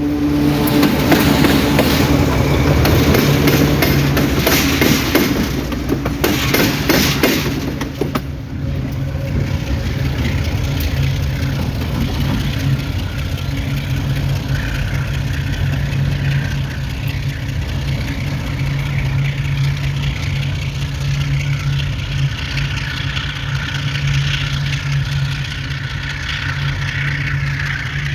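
Train passing on a bridge: wheels clattering over the rails, loudest for the first eight seconds or so. After that comes a steady low drone of a diesel engine.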